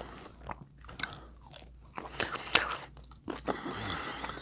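Close-miked eating of seafood boil food: irregular wet chewing and biting clicks, with one sharp, louder click about two and a half seconds in.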